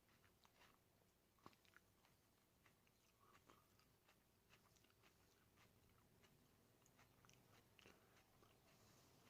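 Near silence, with faint scattered clicks of someone chewing a raw aji pepper pod.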